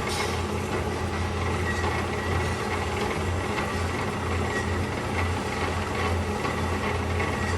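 DoALL C-916A automatic horizontal band saw running through its automatic cutting cycle: a steady machine hum with a thin high whine over it.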